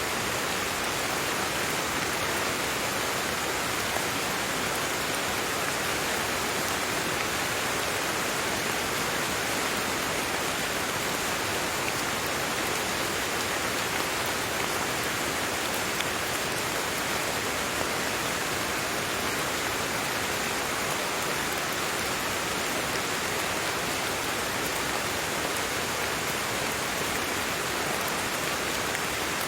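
Steady rain falling, an even hiss of drops with faint scattered patters and no change in level.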